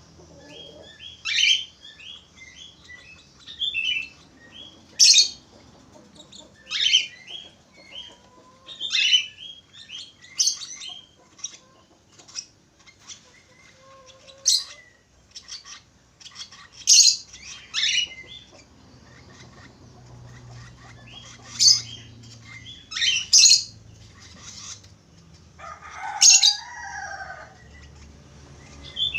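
Budgerigars chirping and warbling: loud, sharp chirps every second or two over continuous softer chattering, with a lower, throaty warble near the end.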